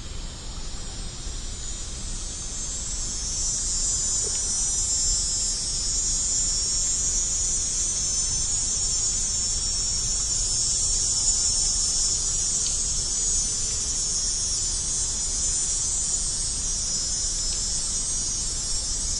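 Steady, high-pitched chorus of insects, growing a little louder a few seconds in.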